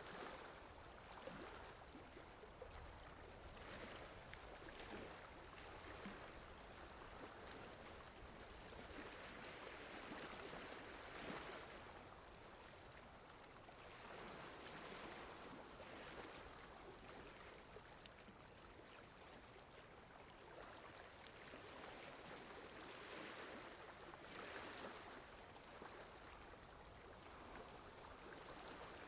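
Rain falling: a faint, even hiss that swells and eases every few seconds.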